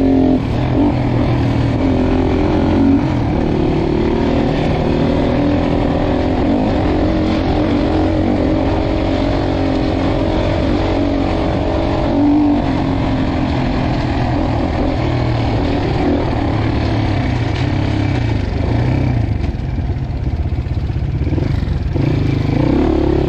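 Dirt bike engine running on a trail ride, its pitch rising and falling with the throttle.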